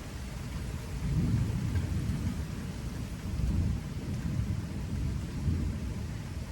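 Rain falling in a thunderstorm: a steady hiss with a low rumble that swells about a second in and again from around the middle to near the end.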